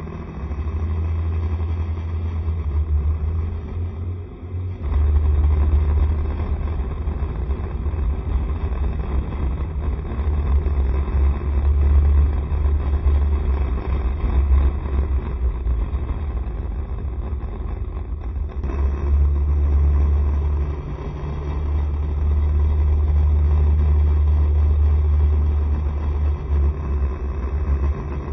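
Steady wind rumble on the microphone mixed with the engine and road noise of a Honda SCR110 scooter being ridden through traffic, easing briefly about four seconds in.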